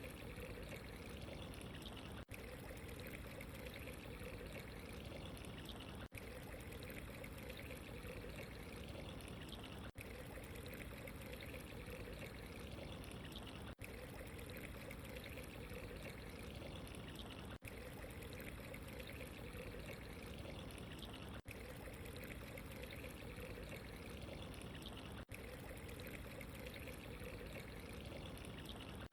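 Steady running, trickling water, an even wash of sound with a brief dip about every four seconds where a short recording loops.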